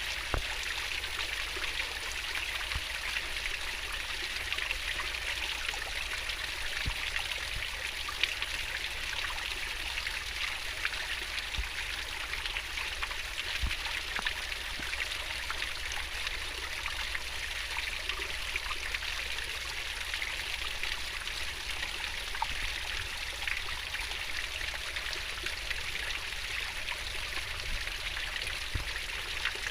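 Fast-flowing stream rushing and babbling steadily over its bed, with small splashes now and then.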